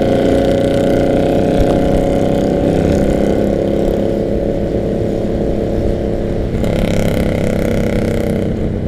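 Harley-Davidson V-twin motorcycle engines running steadily on the road, their exhaust note heard from close behind, with a brief shift in the engine note about six and a half seconds in.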